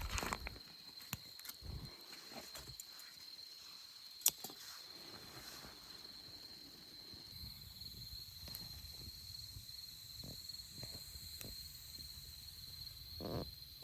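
An insect trilling steadily at one high pitch, cricket-like, with scattered light clicks and taps over it, the sharpest about four seconds in.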